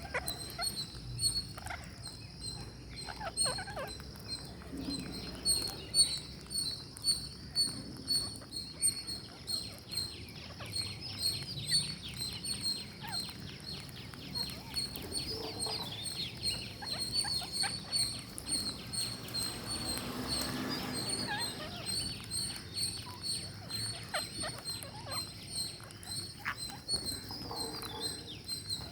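Ring-necked parakeets chirping in quick repeated short notes, several a second, with scattered sharp clicks throughout.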